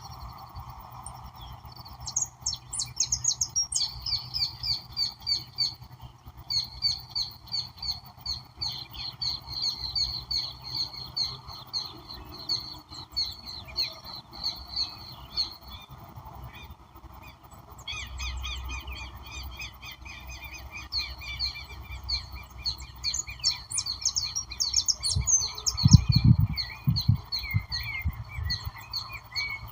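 Several songbirds singing at once, a dense chorus of quick repeated chirps and trills over a steady background hiss. A few low thumps near the end.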